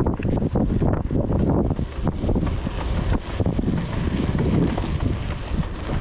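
Continuous rumble of wind and road noise from riding a bicycle along a road with traffic, the wind buffeting the microphone unevenly.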